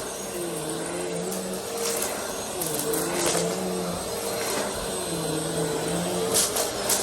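Vacuum cleaner running. Its motor hum dips and recovers in pitch every second or two as it is pushed back and forth in quick strokes, with short bursts of airflow hiss.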